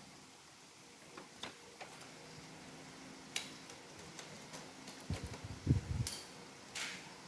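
Scattered light clicks and knocks of Roomba robot vacuum parts being handled during reassembly, with a cluster of heavier knocks about five to six and a half seconds in.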